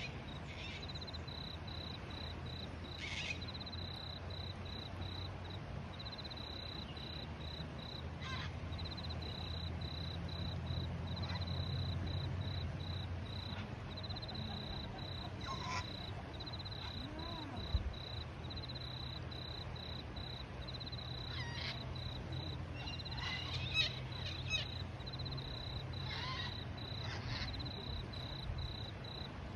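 A steady, fast-pulsing high insect trill goes on throughout, with short bird chirps scattered over it, more of them in the last third, above a low steady hum.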